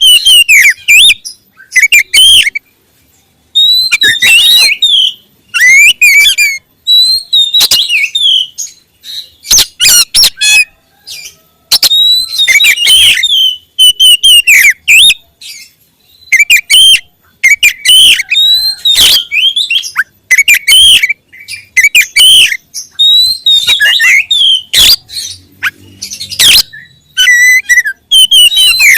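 Oriental magpie-robin (kacer) singing loud, varied whistled phrases, each about a second long and repeated with short pauses.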